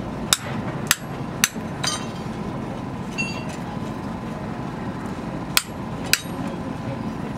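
Hammer striking metal: four sharp blows about half a second apart, a short metallic ring about three seconds in, then two more blows half a second apart near the end, over a steady background noise.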